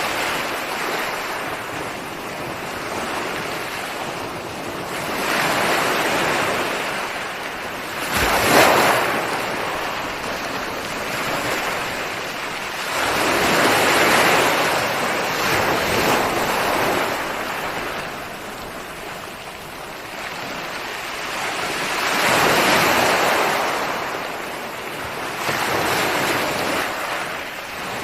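Ocean surf: waves breaking and washing on a shore, the noise swelling and falling back every few seconds. The sharpest, loudest break comes about eight seconds in.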